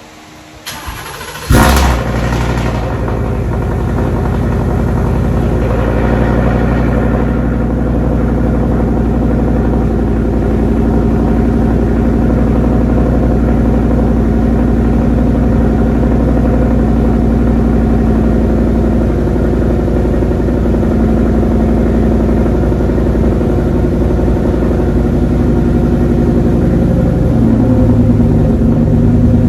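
Turbocharged Ford F150 5.0 V8 cranking over and catching about a second and a half in, then running steadily, with a slight change in its note near the end.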